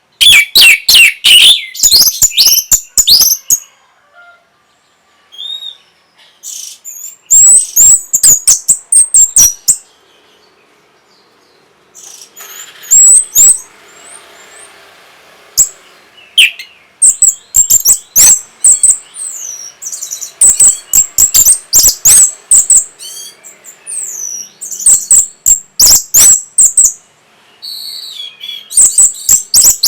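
Orange-headed thrush singing in loud bursts of rapid, high, varied notes. The phrases last one to several seconds, with short pauses of about a second or two between them.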